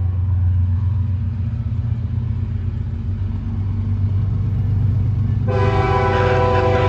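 Freight train's diesel locomotive running with a loud, steady low rumble, and its multi-chime air horn sounding a chord of several notes, starting about five and a half seconds in and still going at the end.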